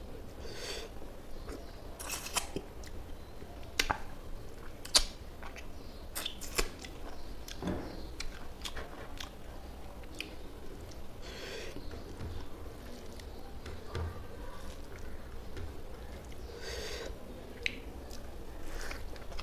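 Close-miked mouth sounds of a man eating fish curry and rice by hand: wet chewing and lip smacks, with sharp clicks scattered through it.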